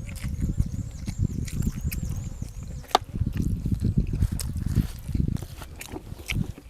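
Close-miked chewing of food: loud, rapid, irregular wet mouth sounds with scattered clicks, including one sharp click about three seconds in.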